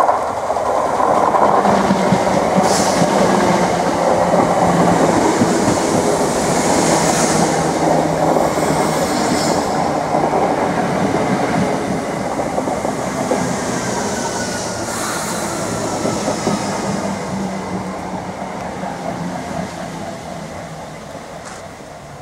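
Two coupled British Rail Class 455 electric multiple units running past and into a station: wheels rumbling and clattering over the rails, with a few brief high squeals. The noise falls away over the second half as the train draws past and slows.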